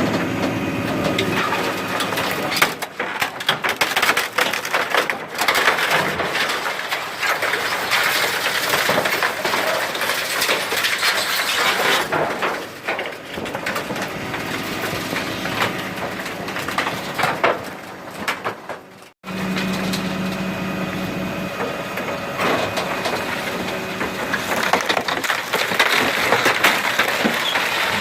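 Wooden furniture cracking and splintering as a garbage truck's hydraulic compactor crushes it, with a steady hum from the truck underneath. The sound breaks off abruptly about two-thirds of the way through, then the crushing and cracking resume.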